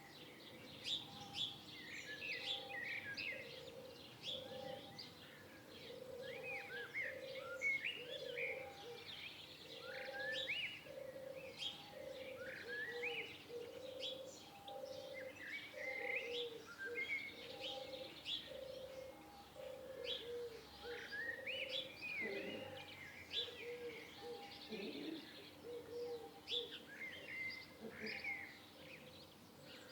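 Birdsong: many small birds chirping and calling over one another, with a low note repeating steadily beneath them about one and a half times a second.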